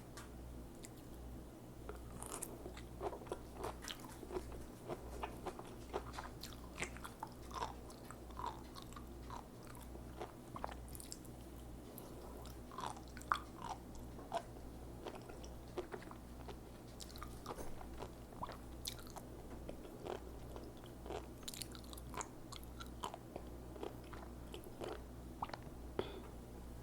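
A person chewing sea grapes close to the microphone: a steady run of small, crisp clicks and wet pops as the little seaweed beads burst between the teeth.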